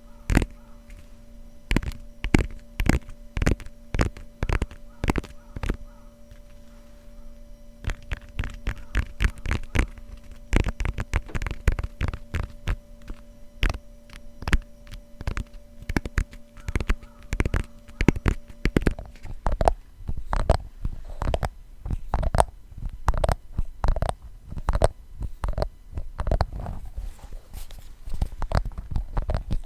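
Rapid fingertip tapping on the cover of a grimoire-style book, over a faint steady hum. About two-thirds in, the hum stops and the tapping changes to taps on a glass container.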